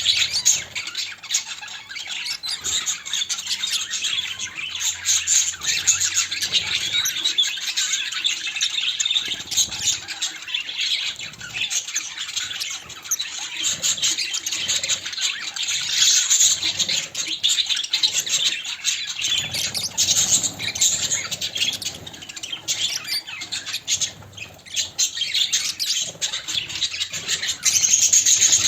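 Budgerigars chattering, chirping and squawking together in a continuous stream, with wing flutters and small clicks among the calls.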